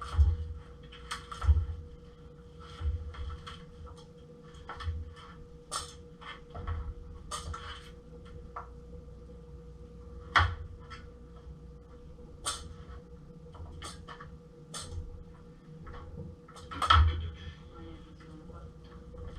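Irregular kitchen clatter: scattered knocks and clicks of cookware and cupboards being handled, with a louder knock about halfway and another near the end, over a steady faint hum.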